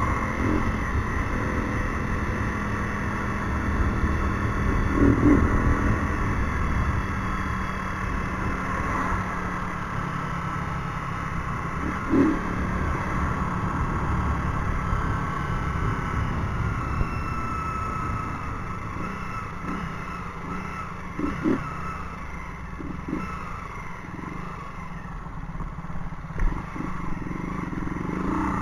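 Motorcycle engine running through a newly replaced exhaust pipe while riding, its note rising and falling gently with engine speed, with a few short knocks along the way.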